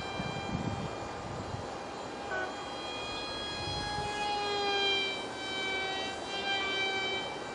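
Ultra micro RC jet's 8 mm motor and direct-drive propeller running with a steady high-pitched whine, rising in pitch and getting louder about four to five seconds in. Low rumbles of wind on the microphone in the first second and a half.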